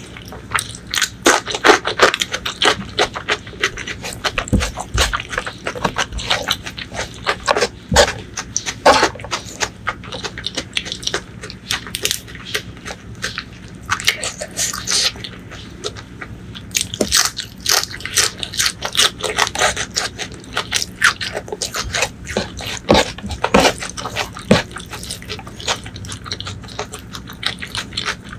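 Close-miked eating sounds: wet chewing, lip smacks and many quick mouth clicks as a person eats rice mixed with spicy curry by hand, along with raw green vegetable stems.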